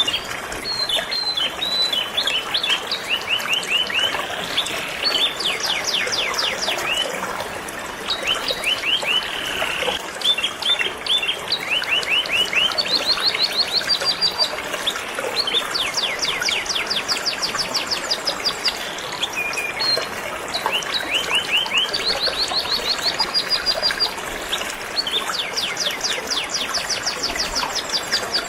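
Canary singing continuously in rapid trilled phrases of quickly repeated notes, over the steady rush of flowing river water.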